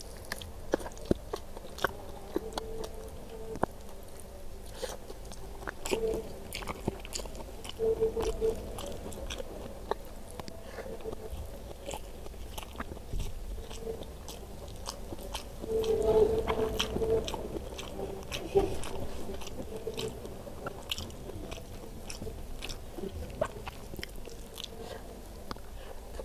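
Close-miked eating: a person biting and chewing rice and curried chicken, with many sharp wet mouth clicks and a louder stretch of chewing in the middle.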